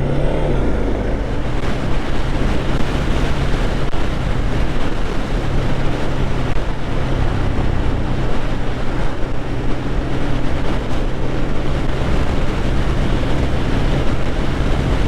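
Motorcycle engine running on the move under heavy wind rush on the microphone; its pitch rises briefly at the start, then holds steady.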